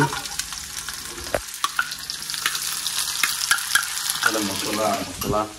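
Onions and spices frying in hot oil in a wok, with a steady sizzle, while a metal spoon stirs and scrapes against the pan. A few sharp clicks of metal on metal.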